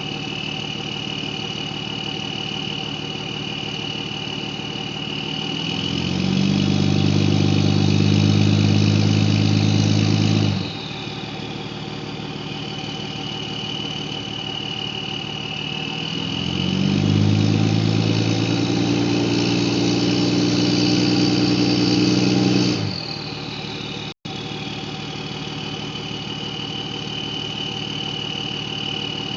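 2003 Dodge Cummins 5.9-litre inline-six turbodiesel with an Industrial Injection Super Phatshaft 62/71/14 turbo, idling with a steady high turbo whistle and revved up twice, several seconds each, through a large Donaldson muffler. Each time the throttle closes, the whistle falls in pitch back to its idle tone; a third rev begins at the very end.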